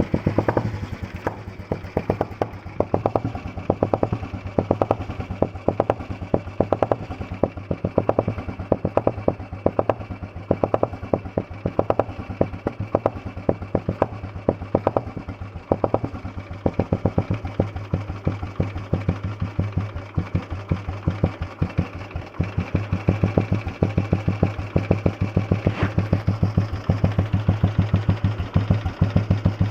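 Old Royal Enfield Bullet's single-cylinder four-stroke engine firing up and settling into a slow, even thumping idle, the heavy-flywheel beat it is known for. In the last quarter the beats come a little quicker and louder.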